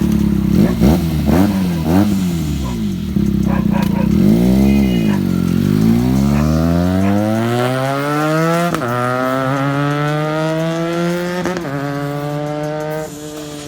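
Benelli TNT 300's parallel-twin engine through an Ixil full-system exhaust, revving up and down in blips, then pulling away hard with the pitch climbing steadily through the gears. Two upshifts come about nine and twelve seconds in, and the sound cuts off just before the end.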